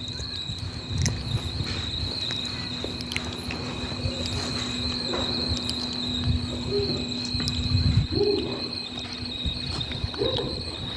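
Continuous high-pitched insect trill, held steady throughout, over a low steady hum that stops about eight seconds in, with scattered low thumps.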